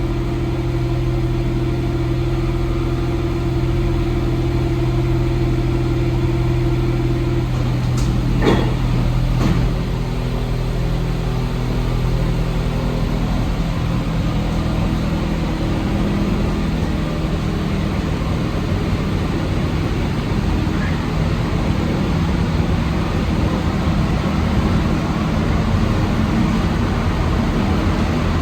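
Interior of an Alstom NS-74 rubber-tyred metro car: a steady hum while the train stands, a couple of clicks about eight seconds in, then the running noise thickens and builds as the train pulls away and gathers speed.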